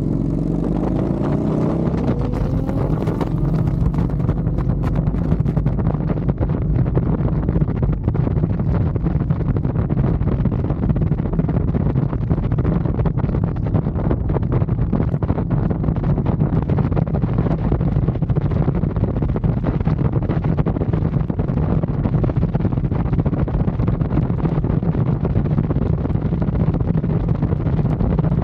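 Motorcycle engine pulling away, its pitch rising over the first few seconds. It then runs steadily at cruising speed, with wind rushing over the microphone.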